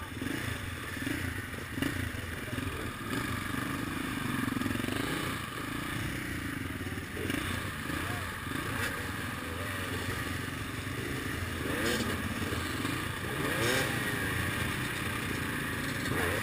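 Several enduro motorcycle engines running at idle close by, with short rising revs a few times in the second half.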